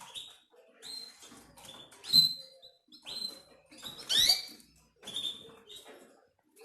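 Canaries giving short chirps, about one a second, the loudest about four seconds in with quick rising notes, among scattered clicks.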